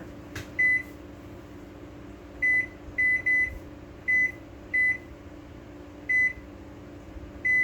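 Microwave oven keypad beeping as buttons are pressed to enter a cook time and a 50% power level: about nine short, same-pitched beeps at uneven intervals.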